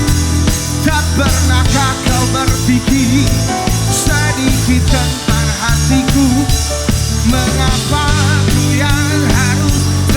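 A live pop-rock band playing loudly through a PA, with drum kit, bass and a wavering lead melody line over them.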